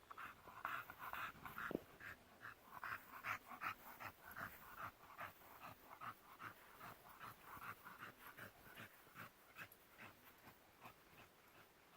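A bully-breed dog panting faintly in quick, even breaths, about three a second, tired from hard play in the heat.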